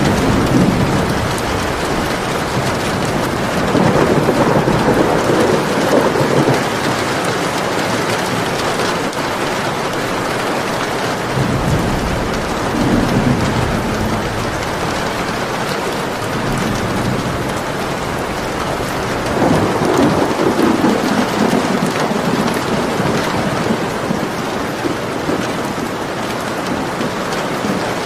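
Steady rain falling hard, with low rolling thunder swelling up three times: about four seconds in, around twelve seconds in, and again near twenty seconds in.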